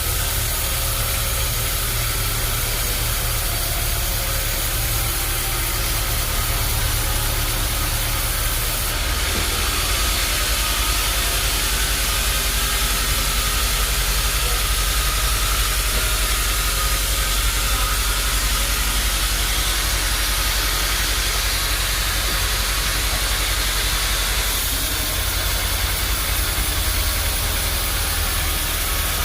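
Sawmill machinery running steadily with a low hum. From about nine seconds in until about twenty-five seconds, a brighter high hiss rides over it.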